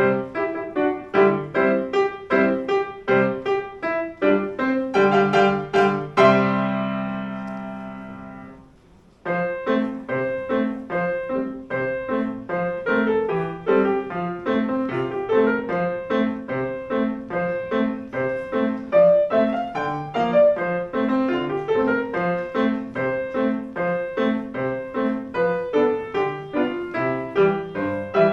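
Piano playing a march in quick, even notes. About six seconds in a loud chord is struck and left to ring and fade. After a brief pause near nine seconds a new section starts and runs on in a steady rhythm.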